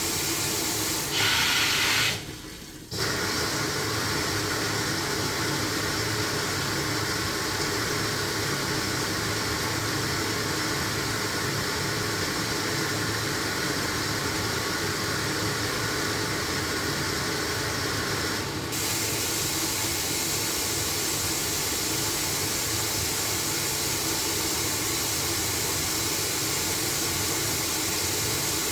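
LG washing machine taking in water: a steady rush of water filling the drum. About two seconds in it spurts louder, then briefly drops out, and near two-thirds of the way through the hiss turns duller.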